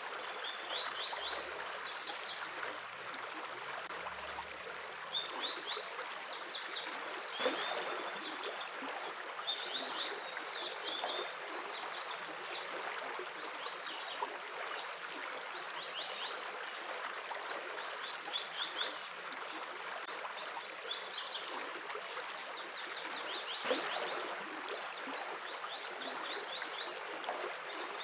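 Flowing stream water running steadily, with birds singing over it in short runs of quick high chirps every second or two. Two brief knocks stand out, about a quarter of the way in and near the end.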